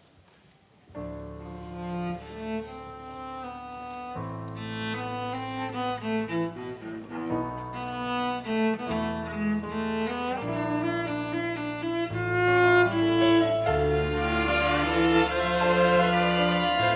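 Instrumental introduction played by a string orchestra with violins: bowed strings carry a slow melody over held bass notes. It starts about a second in and grows gradually louder.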